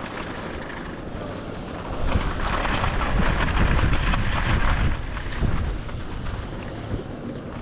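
Wind buffeting the microphone with a steady low rumble, swelling into a louder, hissier gust for a few seconds in the middle.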